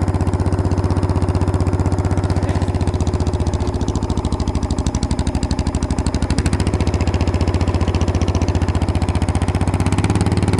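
Lawn tractor engine running steadily through an unmuffled straight pipe, a loud, even rapid pulse of exhaust beats.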